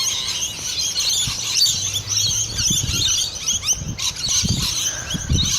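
A flock of lorikeets calling: many shrill, squeaky calls overlapping in a continuous chatter.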